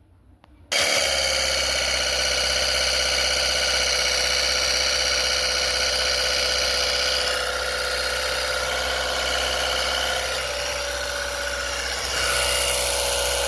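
A small motor-driven machine switches on suddenly about a second in and runs steadily with a whine of several high tones over a low hum, its tone shifting slightly twice.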